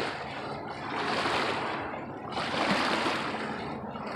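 Lake water splashing and lapping, rising and falling in two swells.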